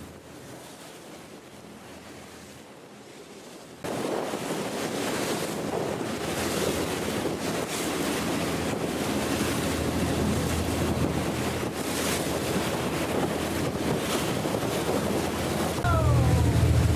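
Wind buffeting the microphone over sea water washing around a boat, jumping abruptly louder about four seconds in. Near the end a low engine rumble comes in.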